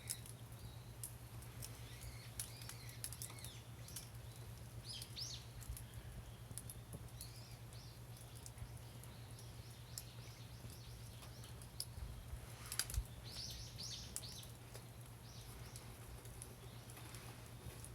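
Backyard wood fire crackling with scattered sharp pops, while small birds chirp in short bursts about five seconds in and again near the end.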